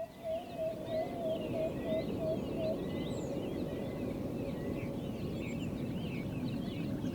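Rainforest ambience with many birds chirping over a steady hiss. In the first three seconds a low call repeats about nine times, roughly three a second.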